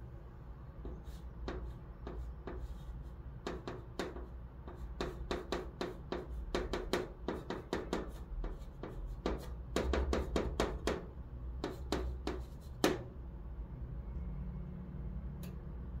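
Chalk writing Chinese characters on a chalkboard stroke by stroke: a quick run of short, sharp taps and scrapes, densest in the middle, with one louder tap near the end before the writing stops.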